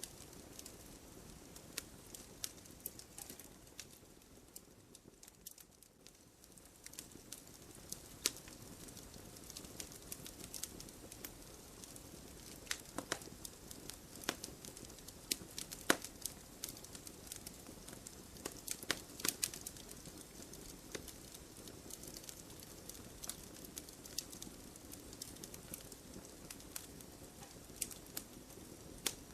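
Wood fire crackling in a fireplace: a steady low hiss of burning logs with scattered sharp pops and snaps, briefly quieter a few seconds in.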